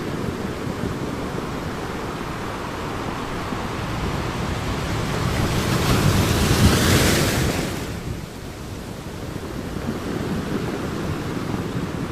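Ocean waves breaking on a beach: a steady wash of surf that builds to one louder breaking wave about seven seconds in, then falls back to a quieter rush.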